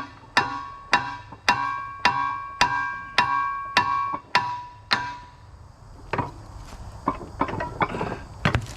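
Hammer blows on a metal winch part, about two a second, each ringing with a clear metallic tone. After about five seconds they stop, and lighter irregular knocks and clinks follow.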